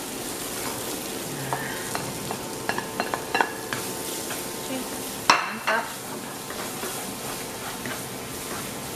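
Chopped shallots and garlic sizzling in hot oil in a nonstick wok while a spatula stirs and scrapes them around the pan. A few sharp knocks of the spatula on the pan come about three seconds in, and one louder knock comes just past five seconds.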